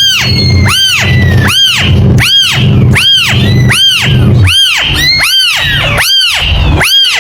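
Kitten mewing over and over, each mew a high call that rises and falls in pitch, about four mews every three seconds in a very even rhythm, over a low steady hum.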